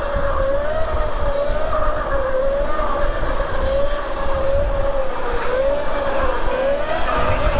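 Electric dirt bike's motor whining while riding, its pitch wavering up and down with the throttle, over a steady low rumble.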